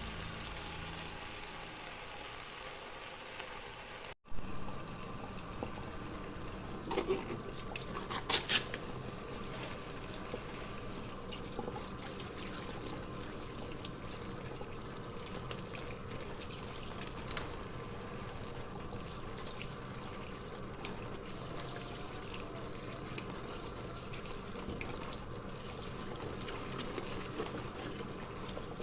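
Water running steadily from a kitchen tap into a sink, with a couple of knocks around seven to nine seconds in.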